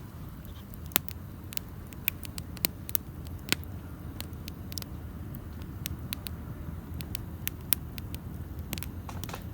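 Wood fire crackling outdoors: irregular sharp pops and snaps over a steady low rumble.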